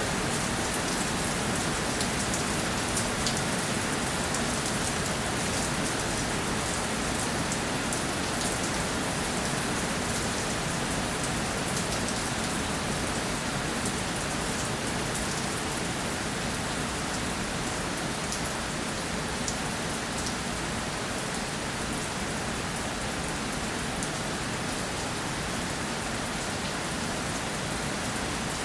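Steady rainfall, with many small drop ticks on a surface over an even hiss.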